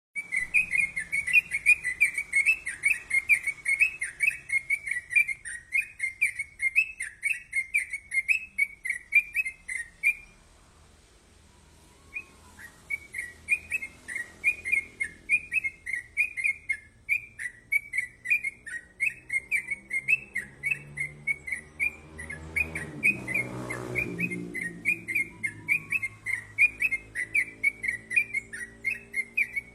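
Yellow-vented bulbul (trucukan) calling in a quick, unbroken run of repeated whistled chirps, several a second, that stops for about two seconds and then resumes. A low drone swells and fades about three quarters of the way through.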